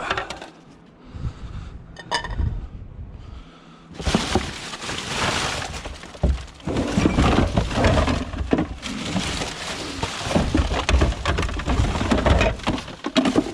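A loud knock near the start. From about four seconds in comes a long run of clattering and clanking as hard scrap items are moved about and rummaged through.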